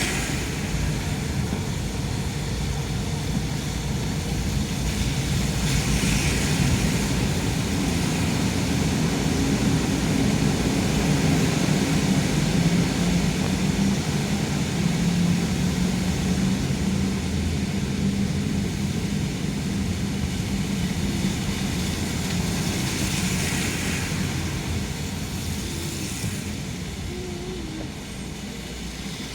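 Car driving on a rain-wet road: a steady low engine and road rumble under a constant tyre hiss, with a few brief louder swells of hiss, one about six seconds in and more near the end.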